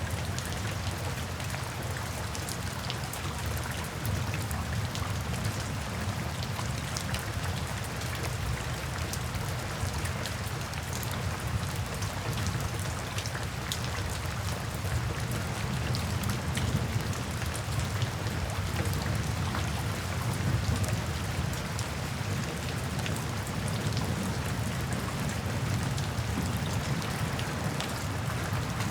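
Steady rain falling, with many individual drops ticking on surfaces. A low, continuous rumble of distant thunder runs underneath and swells slightly midway.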